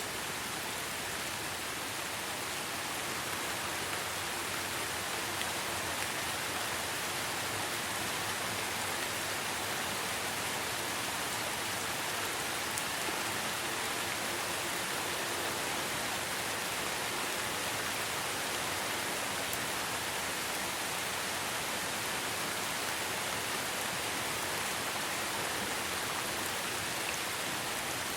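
Steady rainfall: an even hiss of many drops, with a few faint separate drop ticks.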